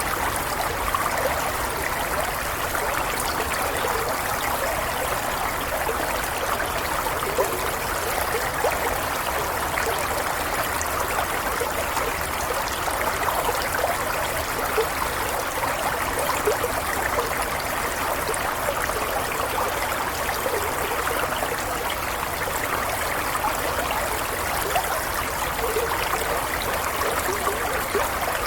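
A stream running steadily over stones, with a continuous babbling trickle.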